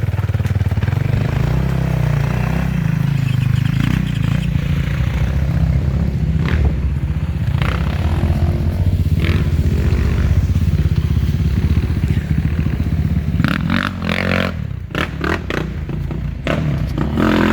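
Enduro motorcycle engine running hard under load, with scraping and clattering; in the last few seconds the engine eases off and a quick series of knocks and clatters comes through.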